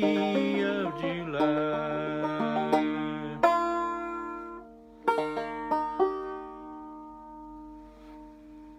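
Banjo playing the closing phrase of an old-time tune. A final strum about three and a half seconds in is followed by a few last plucked notes, and the chord rings out and slowly fades.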